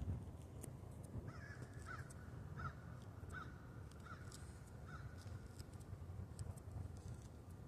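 A bird calling faintly about six times in a row, evenly spaced, over a steady low rumble.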